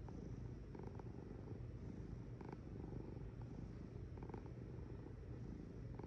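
Domestic cat purring steadily: a low, rapid rumble with a swell that comes back a little under every two seconds.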